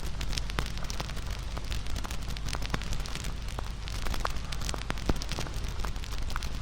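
Wood campfire burning and crackling, with many small sharp pops over a steady hiss.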